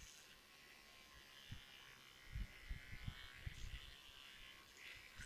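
A Colgate 360 electric toothbrush buzzing faintly as it scrubs lint off a box fan. A few low knocks of handling come about a second and a half in and again a little later.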